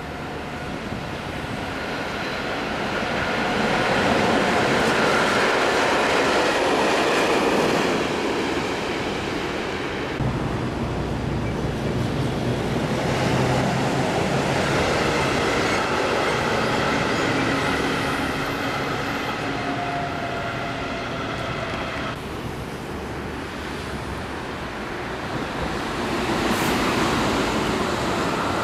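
Electric trains running through a rail yard: the rumble of wheels on the rails, with steady high tones coming and going as a red DB electric locomotive passes. Near the end an ICE high-speed train runs by.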